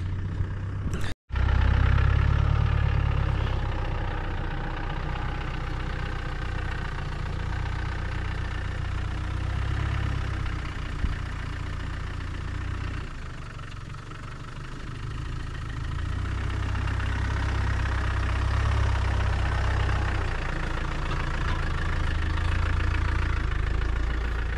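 Land Rover Defender on the move: a steady engine drone with tyre and road noise. It drops out for an instant about a second in, eases off about halfway, then picks up again.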